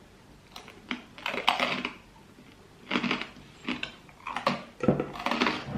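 Close-up eating sounds: a series of separate crunching bites and cutlery against dishes.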